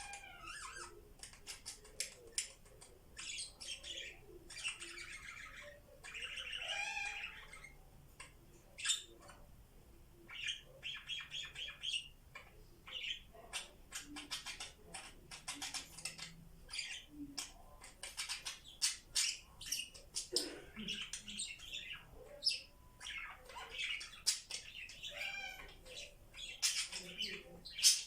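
Pet budgerigars chattering: a steady stream of quick chirps and warbling runs, with occasional harsher squawks.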